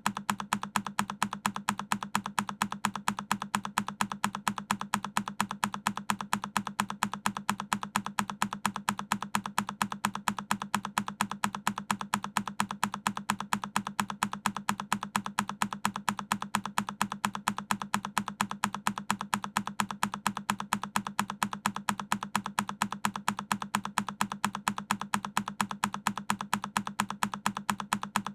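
A single key on a Keychron K10 mechanical keyboard pressed over and over, each press a sharp click, repeating at an even rhythm several times a second.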